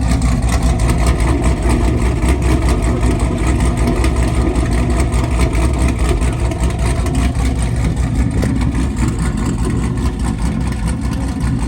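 Car engine running with a loud, steady low rumble, no clear revving.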